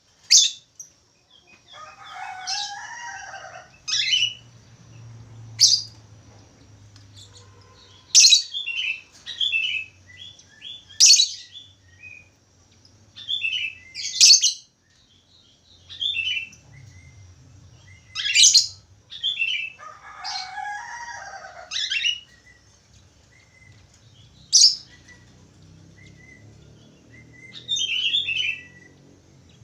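Budgerigar song: sharp high chirps every two or three seconds, with longer chattering warbles twice, about two seconds in and again about twenty seconds in.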